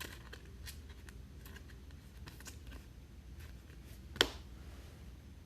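Trading cards being handled and flipped through: faint rustles and light clicks of card stock, with one sharp click about four seconds in.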